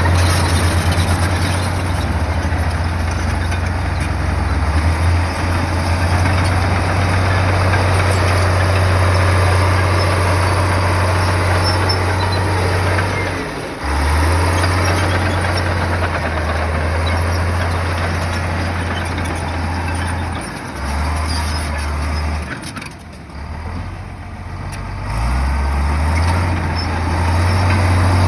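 Heavy earthmoving machine's diesel engine running under load with a deep, steady hum. It drops briefly about halfway, eases off and wavers a few seconds before the end, then picks up again.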